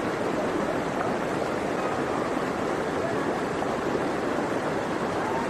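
Floodwater rushing: a steady, loud rush of moving water.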